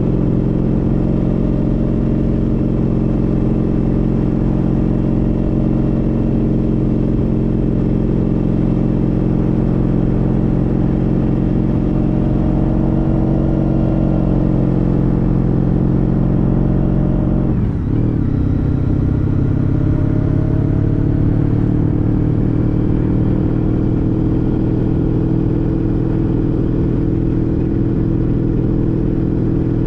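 Honda CTX1300's V4 engine running under way, a steady engine note over low rumble. A little past halfway the sound dips briefly, then the note picks up again slightly higher.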